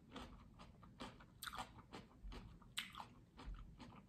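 A person chewing crunchy food: a run of faint crunches.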